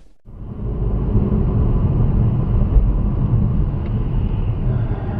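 Steady low rumble of a car on the move, engine and road noise picked up by a dashcam microphone, starting after a brief silence at the very beginning.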